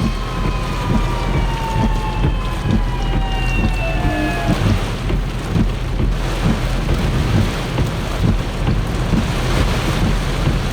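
Torrential thunderstorm rain pouring down, with strong wind gusts buffeting the microphone in low thumps. Over the first four seconds or so a faint whine slowly falls in pitch and then stops.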